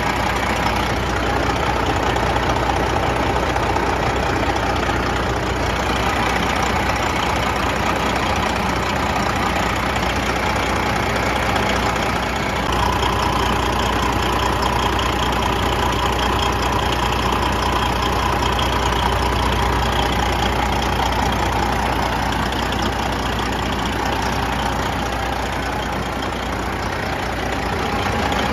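Detroit Diesel Series 60 12.7-litre engine of a Freightliner Classic XL semi truck running steadily, its tone shifting slightly higher about twelve seconds in.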